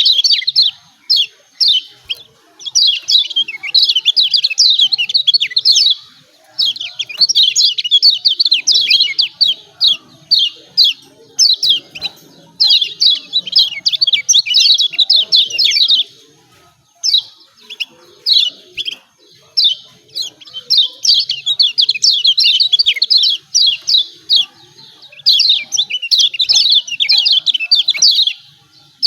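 Kecial kuning white-eye calling 'ciak ciak': rapid, high, chattering chirps in bouts of a few seconds, broken by short pauses.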